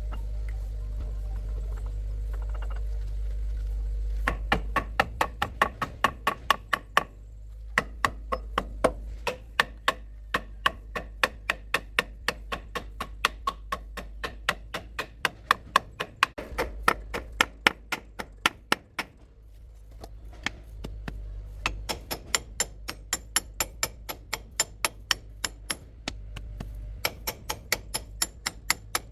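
Steady hammering: sharp knocks at about three to four a second with a couple of short pauses, over a low hum that fades after the first few seconds.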